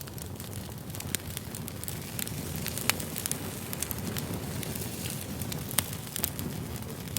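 Campfire burning: a steady low rumble of flames with frequent sharp crackles and pops of burning wood, the loudest pop about three seconds in.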